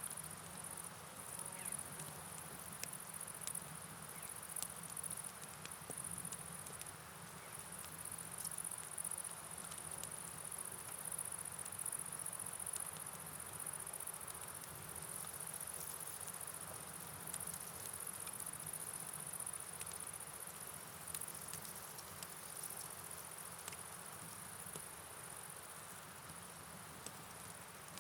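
Steady night rain with a flowing river, under a high, steady shrill chirring, with scattered light ticks of drops throughout.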